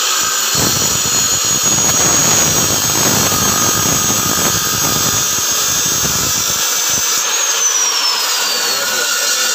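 Electric bone-cutting saw with a carbide-tipped blade. Its motor whines high and steady while the blade cuts rough and noisy through bone for about six seconds. Near the end the power goes off and the whine falls as the blade winds down.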